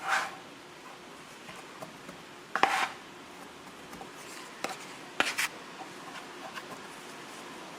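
A crow cawing twice, the second caw about two and a half seconds after the first, followed by a few sharp clicks and taps over a steady background hiss.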